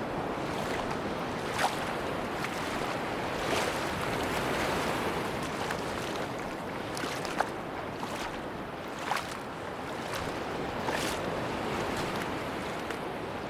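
Sea surf washing steadily onto a beach, with a few short, sharp crackles scattered through.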